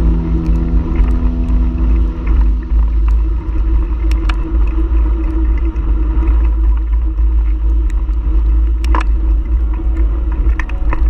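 Loud, steady wind rumble buffeting the microphone of a camera riding on a moving bicycle, with scattered small clicks and rattles.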